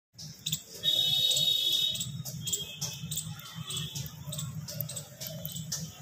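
Birds calling: a high whistled call held for about a second, starting about a second in, with short high chirps repeating throughout over a low steady rumble.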